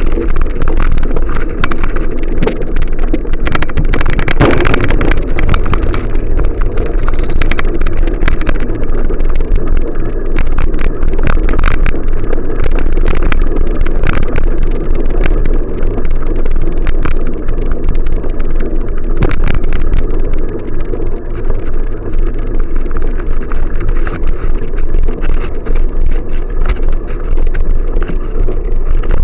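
Wind rumbling on the microphone of a moving bicycle, with scattered clicks and rattles from the bike over the road.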